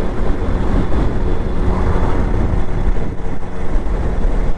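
TVS 50 moped's small engine running steadily while riding at road speed, with wind buffeting the microphone.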